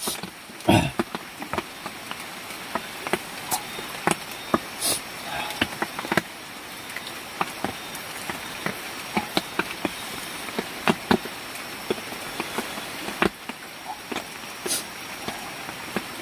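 Steady high insect hum, with many scattered sharp clicks and knocks a few times a second.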